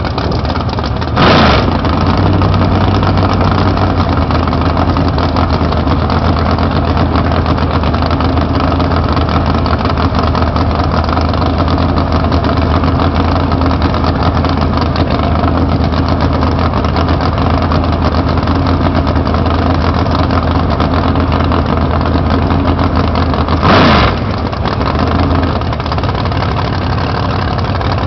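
Turbocharged drag-race car engine idling steadily, with two short, sharp bursts of sound, one about a second in and one near the end.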